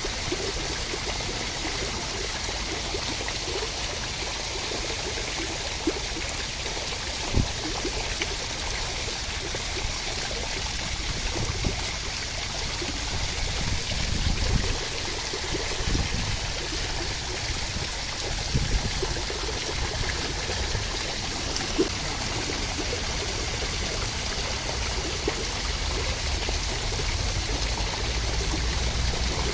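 Steady rain falling, an even hiss with a few brief, louder knocks scattered through it.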